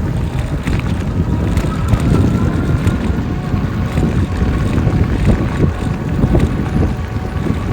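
Wind buffeting the microphone of a moving e-bike, a steady low rumble, with a faint steady whine from the e-bike's electric hub motor.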